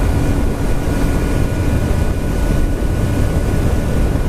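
Wind rushing steadily over the microphone while riding a Honda Nighthawk CB750, with its inline-four engine running underneath through the stock exhaust.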